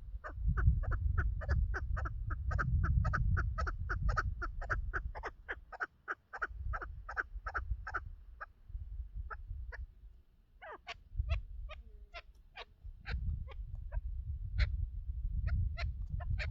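Chukar partridge calling: a fast run of short, sharp clucking notes, about four or five a second, for the first eight seconds or so, then slower scattered notes. A low rumble runs underneath.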